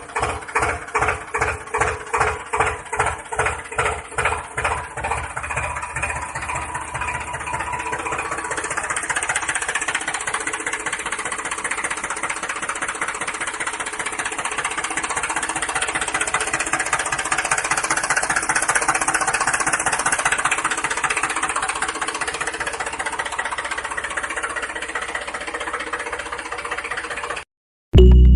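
Engine chugging in slow, even beats of about three a second that speed up over the first few seconds and merge into a steady run, then cut off abruptly near the end.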